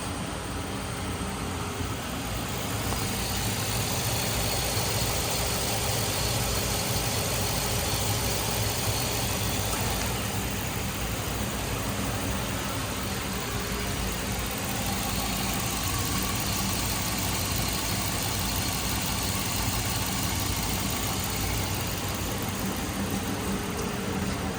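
2003 Chevy Silverado 1500's 5.3-litre V8 running at a steady idle, a little louder from about two seconds in.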